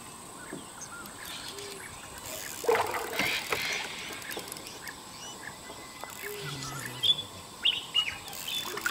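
Birds chirping in short, separate calls over open-air background noise, with a brief noisy rush about three seconds in and another near the end.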